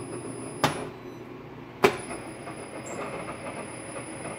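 Inverter-driven spindle of a CNC milling machine running, with a faint high whine over it. Two sharp clicks come a little over a second apart, and the whine drops out between them and returns after the second.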